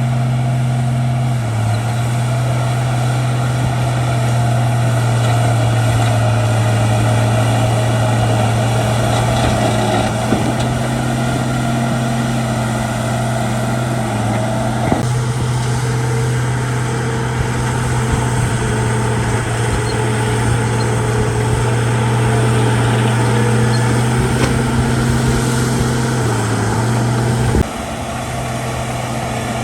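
Shantui D95 crawler bulldozer's diesel engine running steadily under a constant load, with a brief dip in engine pitch about a second and a half in and again near the end, where the sound suddenly drops in level.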